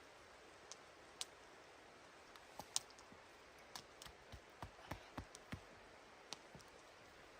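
Faint, irregular sharp clicks and snaps over a low steady hiss, a few scattered at first and coming more often after about two and a half seconds.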